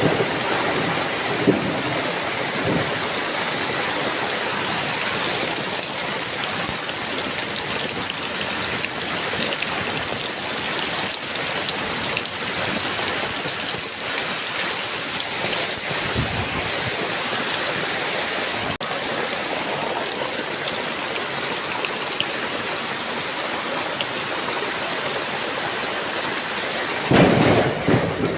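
Heavy rain pouring steadily in a thunderstorm, with a louder roll of thunder about a second before the end.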